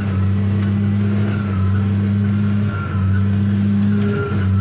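Farm tractor's engine running at a steady road speed, a loud, even low drone heard from inside the cab.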